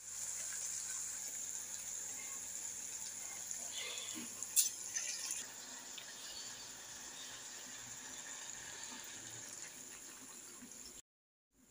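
Vegetables sizzling in a stainless steel pot as a steady hiss, with a single sharp metal clink about four and a half seconds in.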